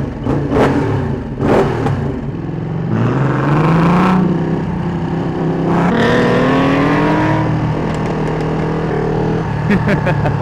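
Motorcycle engine accelerating through the gears. The pitch climbs, drops at a shift, then climbs again, after a few sharp blips at the start.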